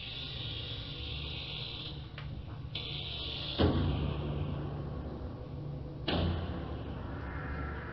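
Industrial soundscape of ore-boat interior sounds: a steady low mechanical hum with two stretches of hissing early on, then two heavy metallic bangs about two and a half seconds apart, each ringing out as it fades. The first bang is the louder.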